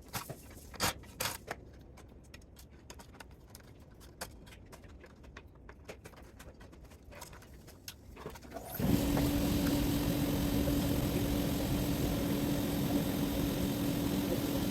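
A few light clicks and knocks, then about nine seconds in a motor starts abruptly and runs on steadily with a constant hum.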